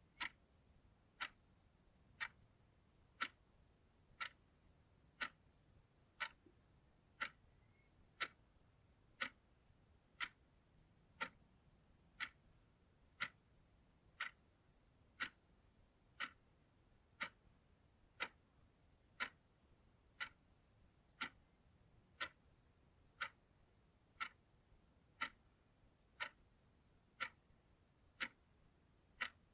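A clock ticking steadily, one sharp tick about every second, with near silence between ticks.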